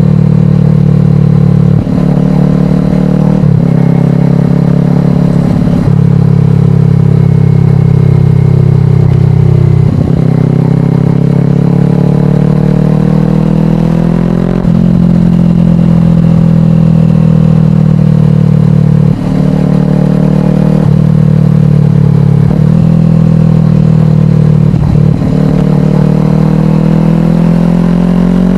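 Kawasaki Ninja 400's parallel-twin engine through a slip-on exhaust, heard while riding. The engine note breaks briefly about eight times, shifting pitch at each break, and climbs steadily near the end.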